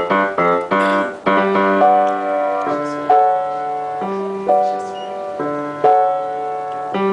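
A piano being played by hand: a slow melody over chords, with new notes or chords struck about every half second to a second.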